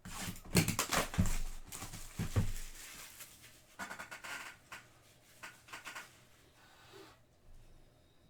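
Hands opening a sealed box of trading-card packs: several sharp knocks and rustles of packaging in the first few seconds, then shorter rustles that die away.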